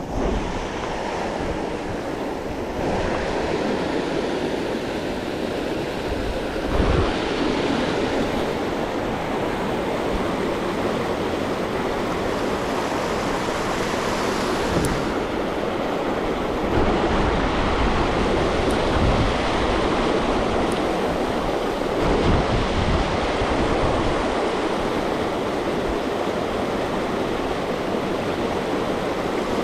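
Wind buffeting the microphone outdoors: a steady rushing noise with irregular low gusty thumps.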